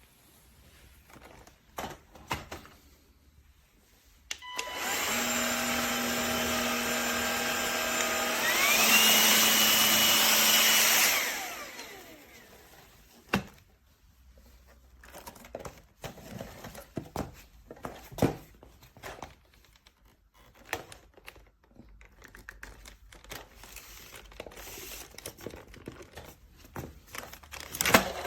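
Cordless stick vacuum's brushless motor switched on and running with a steady whine. A few seconds later it glides up in pitch to a louder, higher power setting, then switches off and spins down. Scattered handling clicks and knocks before and after.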